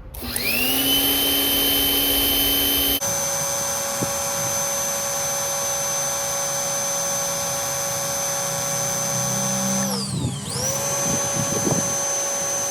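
Portland electric pressure washer motor and pump starting up with a rising whine, then running steadily while spraying through a 15-degree nozzle. About ten seconds in, the whine drops in pitch as the motor briefly winds down, then spins back up to speed.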